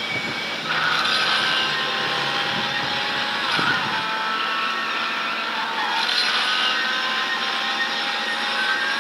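A car running, with a steady hiss and several high whining tones that slowly drift up and down in pitch.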